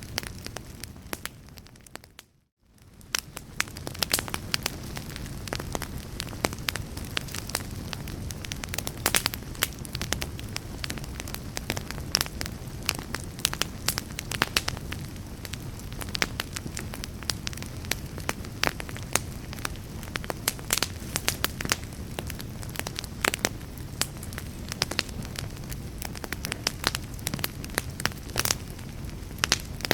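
Fire crackling, with a low steady rumble and frequent irregular sharp pops. About two seconds in the sound fades out to near silence for a moment, then comes back.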